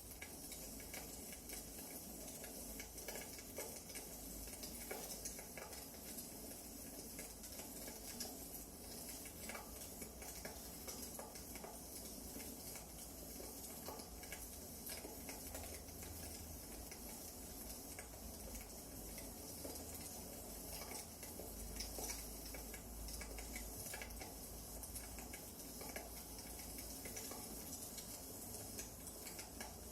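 Wood fire crackling: a steady faint hiss with many small, irregular pops and snaps.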